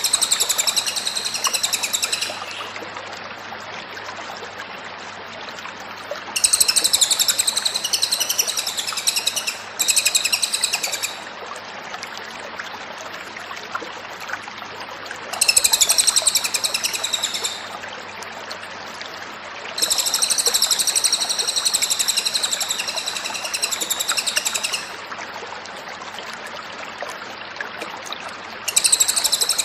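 Cililin songbird singing in repeated bursts of fast, high trilled song, each lasting a few seconds with short pauses between, about six phrases in all.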